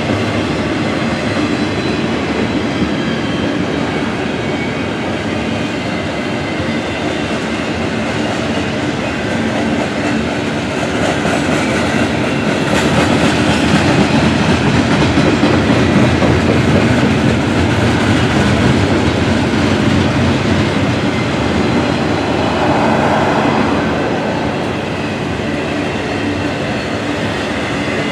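Norfolk Southern freight train cars rolling past, their wheels clacking and rumbling over the rails in a continuous rattle that swells a little louder midway.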